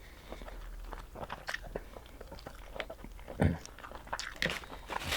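Close-miked eating of seafood: chewing and biting with many short wet clicks and smacks, and one louder thump about three and a half seconds in.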